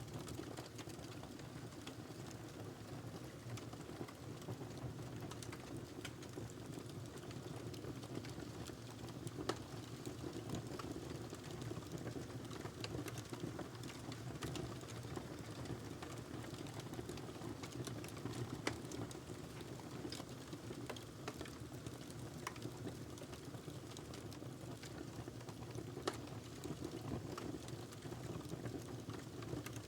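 Wood fire burning in a fireplace: a steady low hiss with scattered sharp crackles and pops from the burning log.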